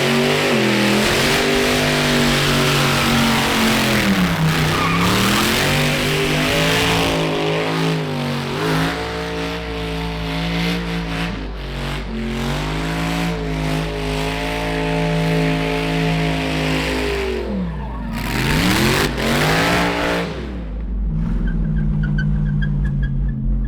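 Supercharged LS V8 in an R34 Skyline held at high revs during a burnout, with tyre noise; the revs dip and climb again several times. Near the end the tyre noise stops and the engine settles to a lower, steady speed.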